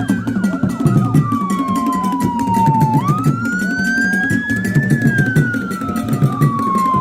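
A wailing siren, its pitch falling slowly, jumping back up about three seconds in and falling again, over music with a low, busy beat.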